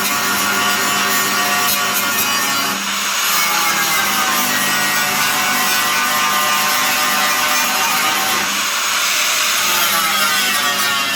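Angle grinder running steadily as it grinds a seat-mounting triangle off a car's steel floor pan. Its whine dips in pitch and recovers twice.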